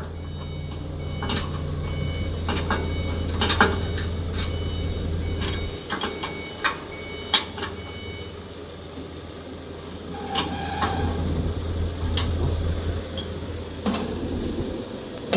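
Metal clanks, clicks and knocks of machine parts being fitted and bolted, over a low steady motor hum that stops about six seconds in and returns for a few seconds later.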